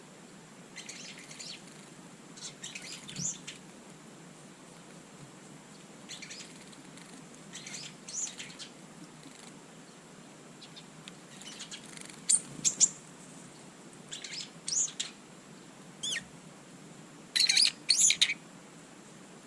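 Small garden birds calling at a feeder: scattered short, high chirps, with louder clusters of calls about twelve seconds in and again near the end.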